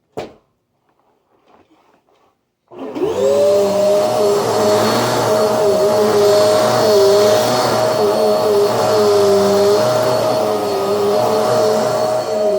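A sharp click just after the start, then about three seconds in a Hoover Nano vacuum cleaner fitted with a Eureka AirSpeed One replacement motor starts up with a quick rising whine and runs steadily. One note of its hum wavers up and down now and then.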